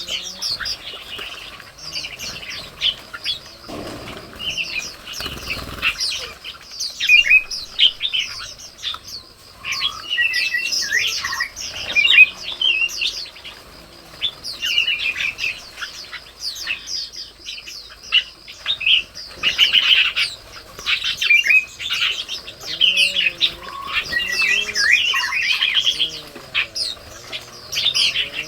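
Red-whiskered bulbuls chirping and calling, many short overlapping notes with no break, over a thin steady high whine.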